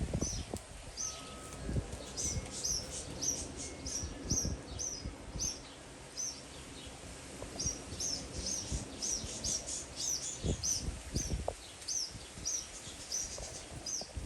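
A small bird chirping over and over, short high notes about two or three a second, with scattered low thumps underneath.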